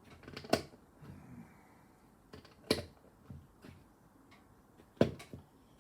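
Loose plastic Lego pieces being picked through and set down: three sharp clicks about two seconds apart, among fainter small ticks and rattles.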